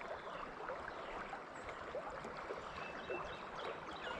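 River current flowing over rocks in fast water, a steady gurgling wash.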